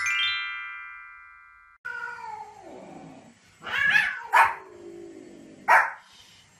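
A bright chime sound effect rings and fades over about two seconds. Then a cat and a small white spitz-type dog trade calls: drawn-out cries falling in pitch, and two short sharp barks, about four and a half and six seconds in.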